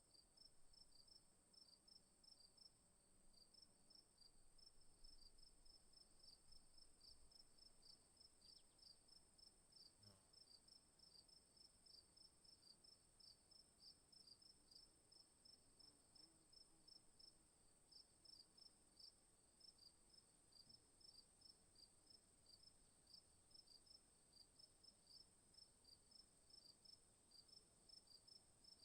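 Faint insect chorus: a steady high-pitched buzz with quick, evenly repeating chirps, a few each second.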